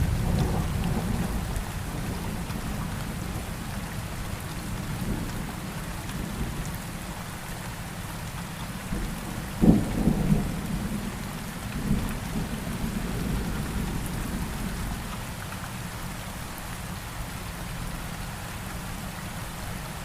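Steady rainfall with thunder. A low rumble at the start dies away, and about halfway through a sharp thunder crack is followed by a couple of seconds of rumbling.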